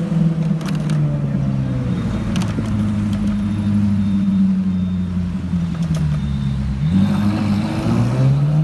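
Ferrari 458's V8 engine running at low speed in street traffic, then rising in pitch as it accelerates near the end. A few brief clicks are heard along the way.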